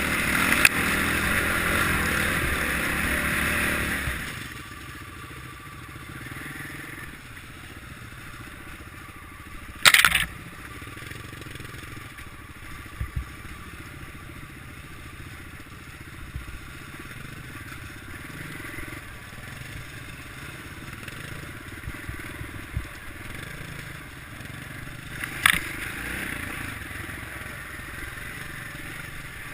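Kawasaki KLX650R single-cylinder four-stroke engine running, then dropping to a much quieter low-rev running about four seconds in. Sharp knocks stand out twice, about ten and twenty-five seconds in, over a light crunching and scraping.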